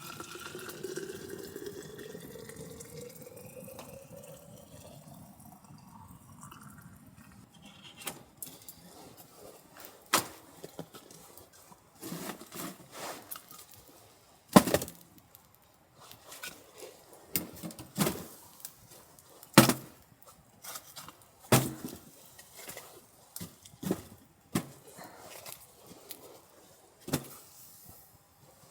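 Water poured into a container, its pitch rising steadily as the container fills, for the first six seconds or so. After that comes a series of sharp knocks, irregular and about one every second or two.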